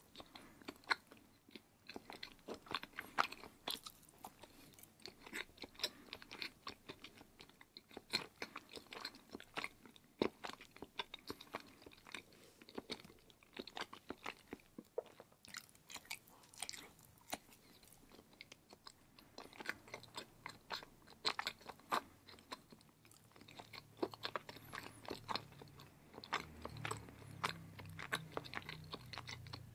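Close-up wet mouth sounds of a person biting and chewing firm block cheese: many irregular small clicks and smacks. A faint low hum joins near the end.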